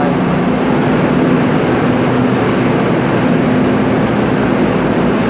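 Steady, loud running noise of a moving vehicle with a low droning hum.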